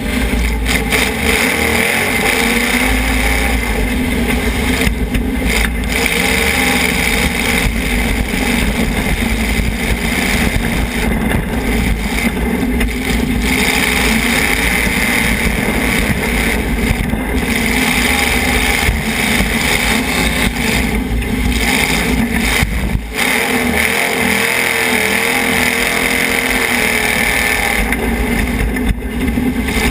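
Demolition derby car's engine running and revving hard, heard from inside the car, loud and steady.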